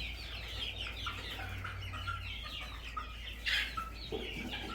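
A flock of chickens clucking and calling without pause as they squabble over food scraps, with one louder, sharper call about three and a half seconds in.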